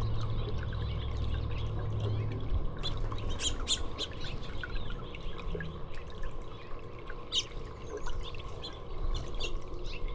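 Small songbirds chirping, with many short high calls from about three seconds in, over a steady trickle of water. A low hum sounds in the first few seconds.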